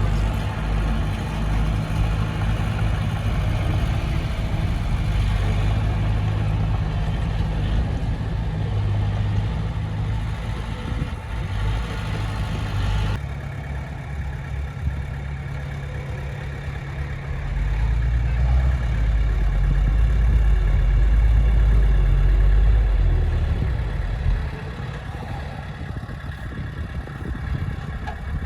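Heavy diesel engine of earthmoving machinery running under varying load. Partway through, the sound changes abruptly. Later it grows louder and deeper for several seconds before dropping back.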